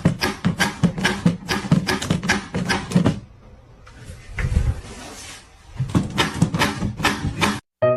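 A rapid series of knocks or taps, about four a second, that pauses for a few seconds midway, resumes, and is cut off suddenly near the end.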